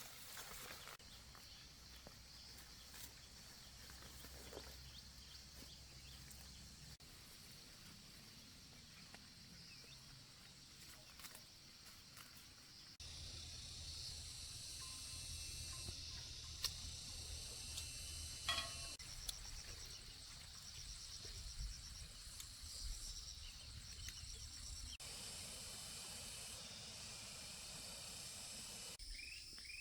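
Faint rural outdoor ambience of insects chirring, with one short rising-and-falling bird call a little past the middle. The background shifts abruptly several times.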